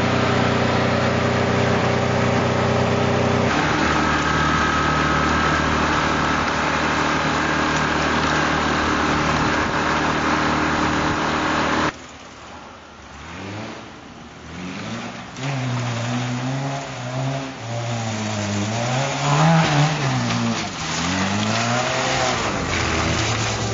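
Toyota Corolla KE55's four-cylinder engine running at a steady, raised idle, its note shifting slightly a few seconds in. After a sudden change about halfway, the car is heard further off, revving up and down as it drives.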